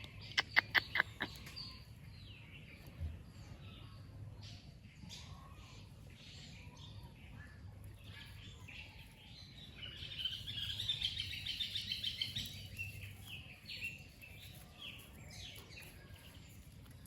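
Birds chirping. A quick run of sharp high chirps comes at the start, and a rapid trill of repeated notes follows about ten seconds in.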